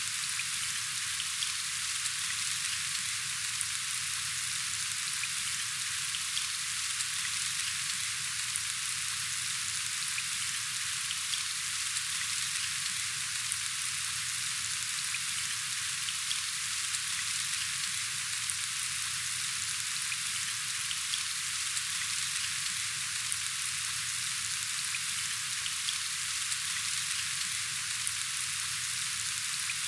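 Steady rain falling: an even hiss with fine drop ticks, unchanging throughout.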